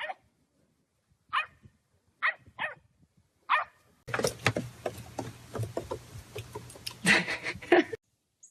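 A dog barking: five short single barks in the first three and a half seconds, then a denser run of sound over a low steady hum that cuts off abruptly about eight seconds in.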